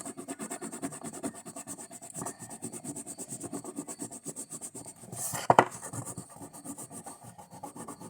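Rapid, even back-and-forth scratching strokes, like a pencil shading or colouring in on paper or card. A single sharp knock about five and a half seconds in.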